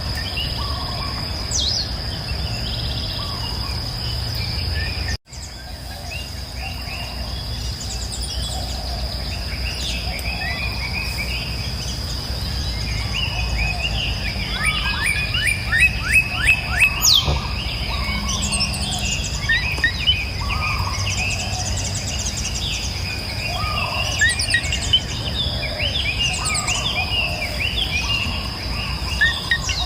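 Several wild birds singing and chirping in quick, overlapping phrases, busier in the second half, over a steady high-pitched insect drone and the low, even rush of a river. The whole soundscape cuts out for a moment about five seconds in.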